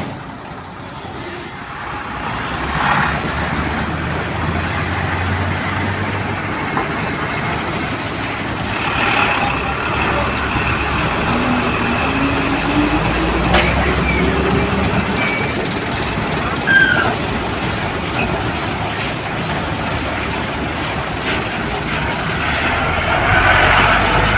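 Heavy truck running, its engine note rising in pitch about halfway through, with several short bursts of air hiss like air brakes releasing.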